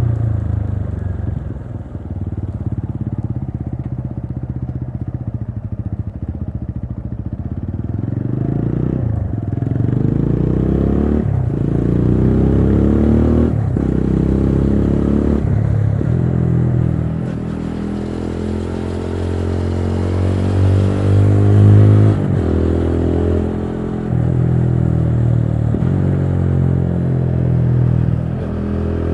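TVS Apache RTR 200 4V's single-cylinder engine pulling through the gears: its pitch rises and then drops sharply at each of several upshifts about two seconds apart, then it runs at a steadier pitch with a few smaller changes.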